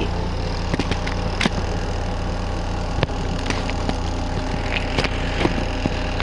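Small RV washing machine's spin motor running steadily in the spin cycle, wringing soapy water out of a load of clothes, with a few scattered light clicks.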